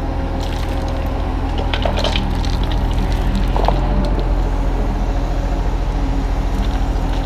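Kubota U35-3 mini excavator's diesel engine running steadily under hydraulic load, its pitch shifting as the arm moves. A few sharp knocks and scrapes of stone come about two seconds in and again near the middle.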